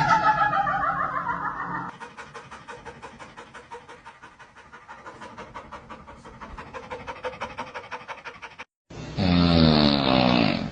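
Rapid, even panting, about four or five breaths a second, like an animal's, after a falling wail fades out; it stops suddenly, and a loud wavering wail follows near the end.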